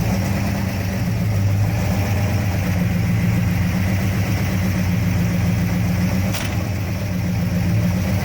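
1968 Dodge Charger R/T's 426 Hemi V8, bored 30 over, idling steadily right after being started. There is a brief click about six seconds in.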